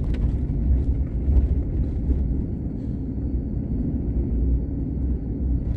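Car driving, a steady low road and engine rumble.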